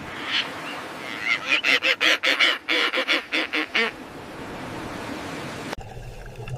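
Penguin calling: a rapid series of short, harsh calls, about four a second, over a steady hiss. The calls stop about two-thirds of the way through, leaving only the hiss.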